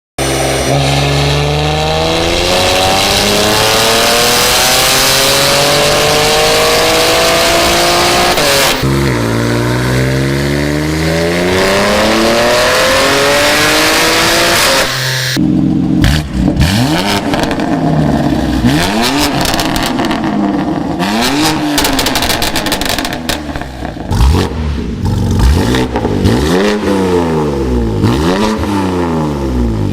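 BMW S58 twin-turbo straight-six with a valved equal-length aftermarket exhaust, pulling hard with one upshift about nine seconds in. About halfway through it cuts suddenly to a run of revs climbing and falling again and again, quicker near the end.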